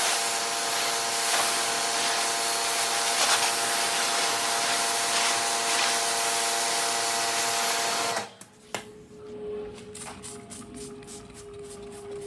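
Pressure washer spraying the floor mats: a loud, steady hiss of the water jet over the machine's steady hum. It cuts off suddenly about eight seconds in, leaving a quieter steady tone with faint ticking.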